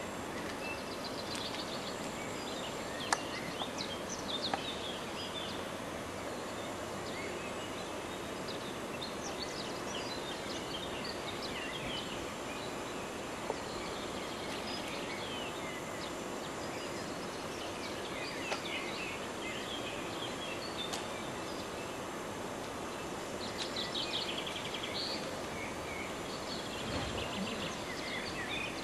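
Birds chirping here and there over a steady hiss of outdoor ambience, with a few sharp clicks.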